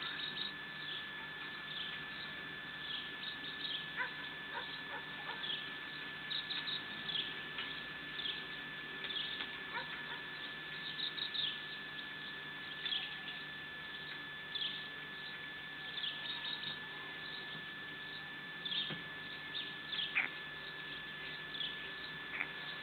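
Small birds chirping: short, high notes that drop in pitch, scattered irregularly, sometimes in quick runs of three or four. A steady high electronic whine runs underneath.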